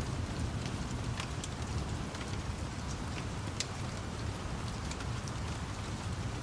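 Steady rain over a low rumble, with scattered sharp pops and crackles from a wood fire.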